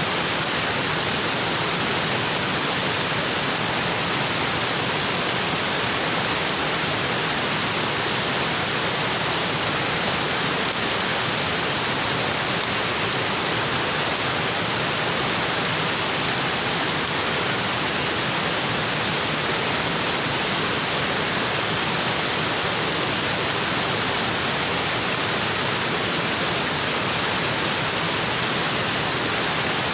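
Waterfall: water falling steadily onto rocks, an even, unbroken rushing.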